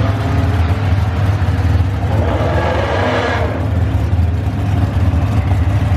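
Drag-racing car engines: a steady low drone, with a louder rush of engine and exhaust noise building in the middle and cutting off suddenly about three and a half seconds in.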